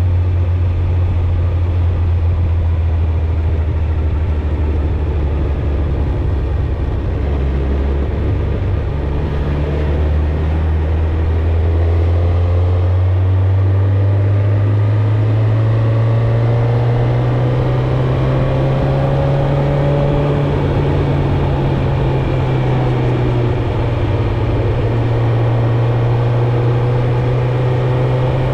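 Suzuki GSX-R1000's inline-four engine and exhaust running under way. The low, steady engine note climbs in pitch over a few seconds about halfway through, then holds there.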